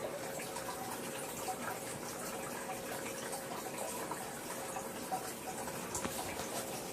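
Aquarium water trickling steadily, with a faint steady hum underneath.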